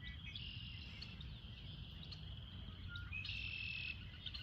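Outdoor chorus of insects and birds: a steady high insect drone throughout, with buzzy trills a little after the start and again about three seconds in, over a low rumble.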